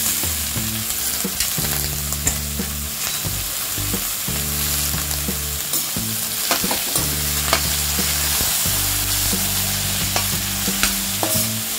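Green brinjal (eggplant) pieces sizzling as they go into hot tempered oil in a stainless steel pan, then being stirred with a slotted steel spoon, with scattered clinks of the spoon against the pan. Low background music runs underneath.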